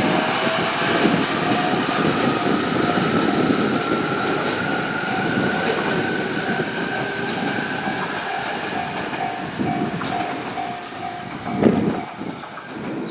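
JR Kyushu 817 series electric train's VVVF inverter whining as it picks up speed, over the rumble of the running gear, with a slowly rising whine. Near the end one of the tones turns pulsing and cuts out, followed by a brief loud thump.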